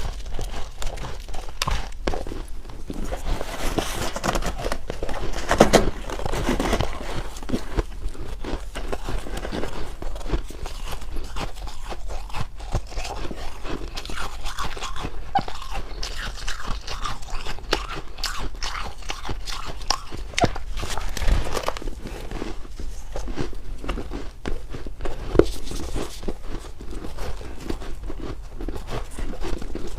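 Ice being bitten and chewed close to the microphone: continuous crunching and cracking, with a few louder bites about six, twenty-one and twenty-five seconds in.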